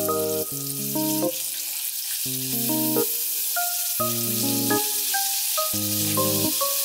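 Food frying in hot oil, a steady sizzle, under background music of short melodic phrases.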